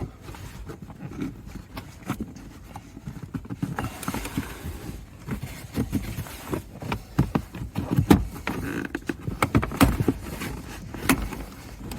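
Plastic interior trim panel being pulled off and handled, its clips popping loose: a string of irregular clicks and knocks, loudest about eight and ten seconds in.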